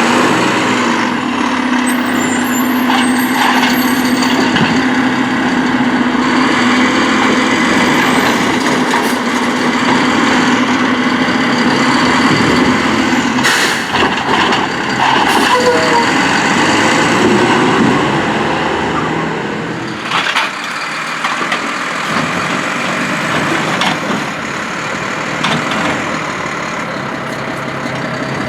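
Mack LR garbage truck with a Heil Durapack Rapid Rail side-loader body running, with a steady tone from the engine and hydraulics for about the first half, then a few sharp knocks, and a little quieter after.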